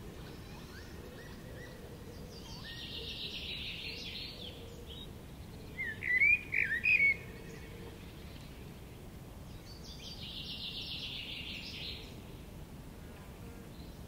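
Small songbirds singing: a high, fast trilled phrase a few seconds in and again later, with a loud burst of a few sharp chirps in between, over a steady background of wind.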